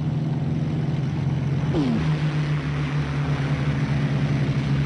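A steady engine drone, with a short falling whine just under two seconds in.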